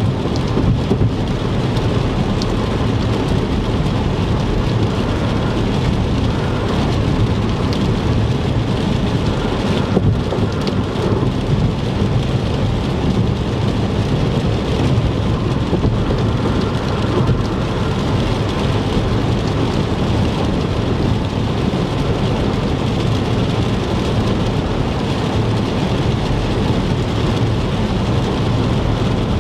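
Car driving through heavy rain on a wet interstate: steady rain and tyre spray noise over an even low road rumble.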